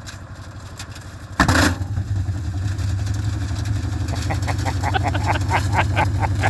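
Washing machine motor starting up abruptly about a second and a half in, then running with a steady low hum. From about four seconds in, a quick string of knocks and clatters comes from stones tumbling in the drum.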